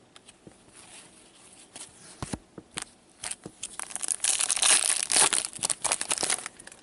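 Hockey card pack wrapper being torn open and crinkled by hand: a few light clicks and rustles, then a dense run of crackling from about four seconds in.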